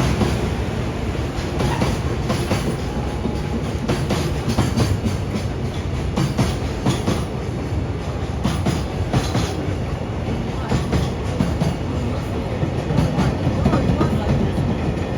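EF210-hauled freight train rolling through at speed, its wagon wheels clicking over the rail joints in a steady rapid clatter.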